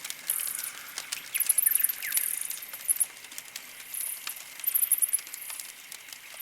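Campfire crackling with irregular sharp pops, while birds chirp: very high, rapid trills repeating about once a second, and a few short downward-sliding calls.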